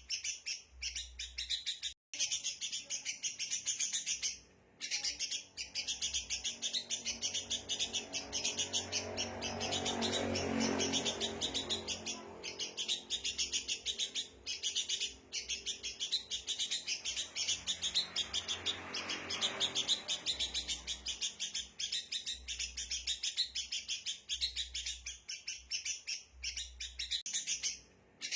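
Sooty-headed bulbuls giving rapid, agitated chattering calls without pause, a noisy flock-alarm chorus of the kind used as a lure to draw wild birds in. A lower hum swells up and fades in the middle, around 10 seconds in and again near 19 seconds.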